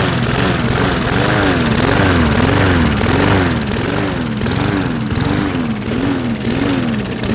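Briggs & Stratton lawn mower engine running on a lighter-fluid mix poured down its carburetor, its pitch rising and falling regularly about twice a second.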